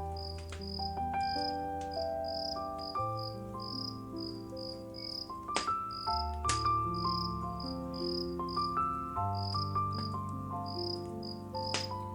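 Soft, slow ambient music of held notes under cricket chirps repeating about twice a second. A few sharp crackles from a burning wood fire come around the middle and near the end.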